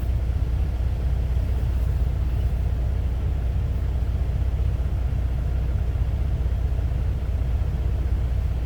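Steady low rumble of an idling semi-truck diesel engine, heard from inside the cab.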